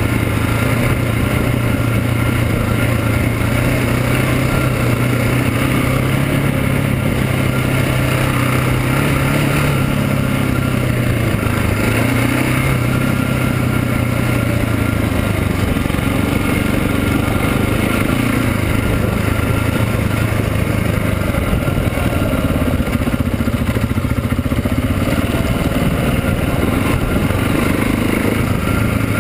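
KTM 690 SMC's single-cylinder engine running at low, fairly steady revs while riding a dirt trail, its pitch shifting only a little now and then.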